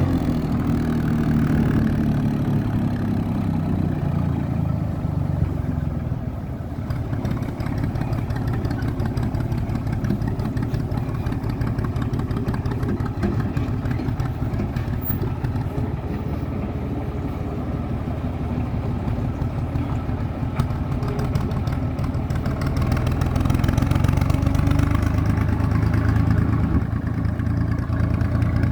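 IMT 549 tractor's diesel engine running steadily while driving, dipping slightly about six seconds in and running louder and higher near the end.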